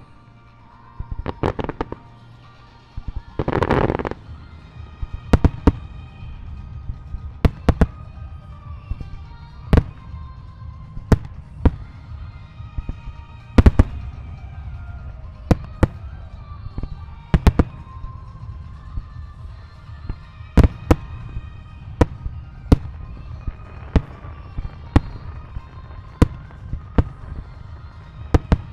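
Aerial firework shells bursting in a quick series of sharp booms, about one to two a second, over a low rumble. Music plays along. A longer, denser burst comes about three to four seconds in.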